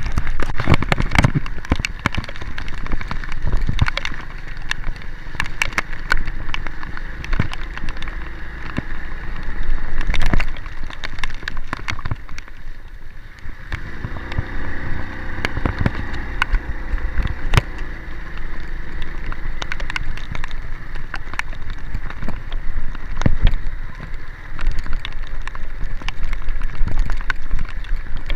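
A vehicle driving over a rough mountain road in heavy rain, with a steady low rumble, frequent knocks and rattles, and wind buffeting the microphone.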